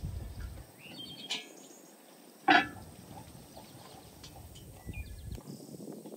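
Outdoor ambience with birds calling in short chirps and gusts of wind rumbling on the microphone. One brief, loud call-like sound stands out about two and a half seconds in.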